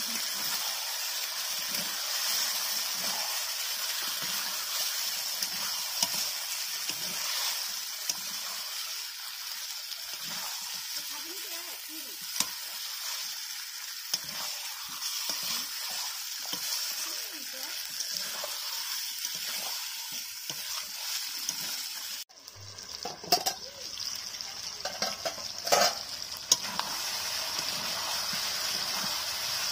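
Chicken pieces frying in oil in a large metal wok (kadai), a steady sizzle, while a metal spatula scrapes and knocks against the pan as they are stirred. About two-thirds through, the sizzle drops out for a moment, a few louder scrapes and knocks follow, then the sizzle resumes.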